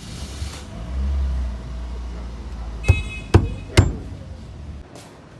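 Toyota Corolla GLi engine turning over and running roughly with a low rumble, loudest about a second in. Three sharp bangs come about half a second apart near the middle, and then the engine cuts out suddenly shortly before the end.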